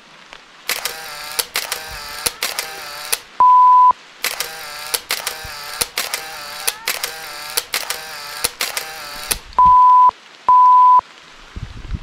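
Electronic sound: short blocks of a buzzy pitched tone in quick succession, broken by three loud steady beeps at one pitch, one a few seconds in and two close together near the end.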